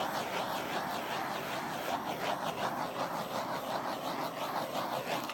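Handheld torch flame hissing steadily as it is played over wet acrylic paint to bring up cells, cutting off suddenly at the very end.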